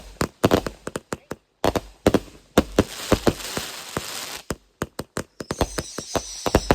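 Fireworks going off in rapid succession: a fast series of sharp bangs, joined about two and a half seconds in by a steady crackling.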